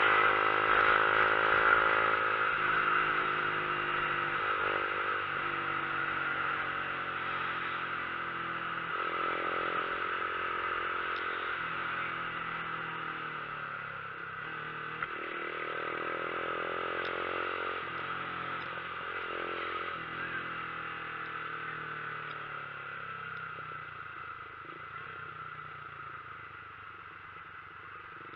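Vehicle engine pulling uphill, its pitch rising and falling several times as it revs up and shifts, over a steady rush of wind and road noise. It gradually gets quieter toward the end.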